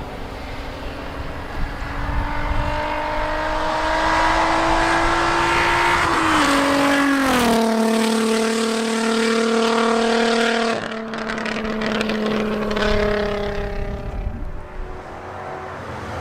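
Volkswagen Golf MK1 GTI engine under way: its note climbs steadily for several seconds, drops sharply about halfway through, then holds steady and eases off slightly near the end.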